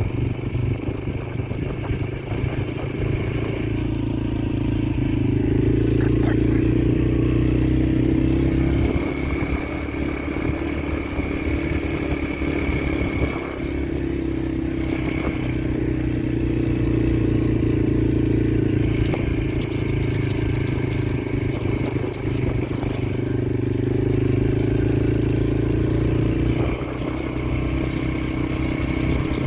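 Yamaha TT-R125LE dirt bike's single-cylinder four-stroke engine running while being ridden, its note shifting up and down a little with the throttle.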